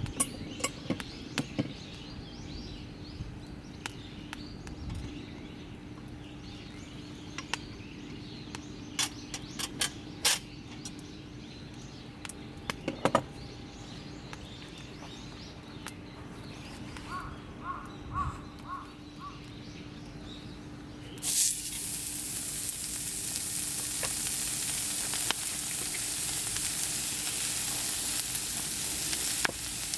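Wood bonfire crackling with scattered sharp pops. About two-thirds of the way through, a loud steady sizzling hiss starts suddenly and keeps going.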